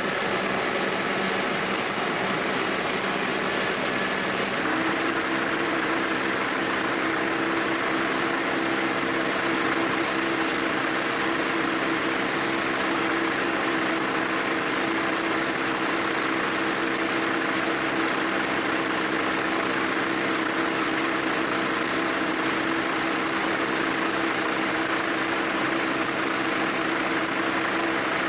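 Steady drone of running machinery, with a hum that grows stronger about five seconds in and then holds steady.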